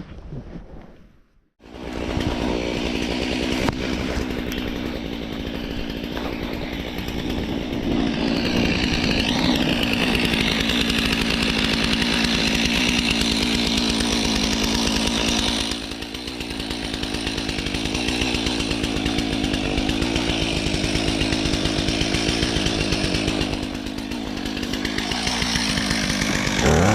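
Stihl MS 362 C two-stroke chainsaw running at speed, cutting birch wood. It starts suddenly about a second and a half in after a brief silence, and its sound dips briefly twice, about halfway through and again near the end, as the load changes.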